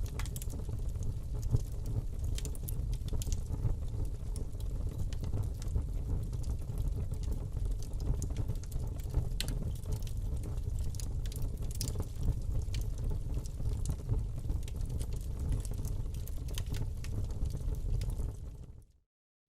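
Wood fire burning in a fireplace: a steady low rumble of flames with frequent sharp crackles and pops. Near the end it fades out to silence for a moment, then comes back.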